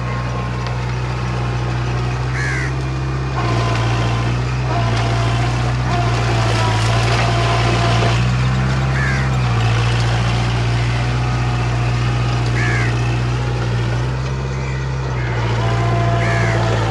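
Kubota MU4501 tractor's diesel engine running under load while puddling mud, its note stepping up and down several times as the load changes. Crows caw every few seconds.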